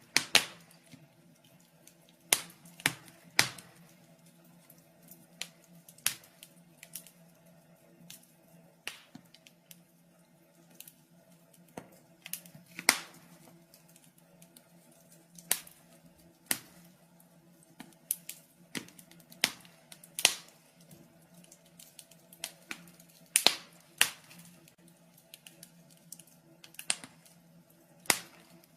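Wood fire crackling in a fireplace: irregular sharp pops and snaps, a few louder ones standing out, over a faint low steady hum.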